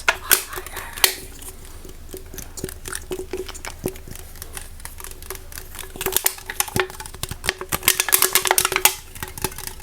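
Close-up ASMR tapping and clicking on hard objects: scattered sharp taps that turn into a fast flurry of taps about six seconds in and stop near the end.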